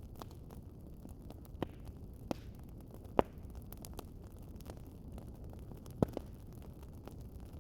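Fireplace fire crackling: a low steady rumble with scattered sharp pops, the loudest about three seconds in and another about six seconds in.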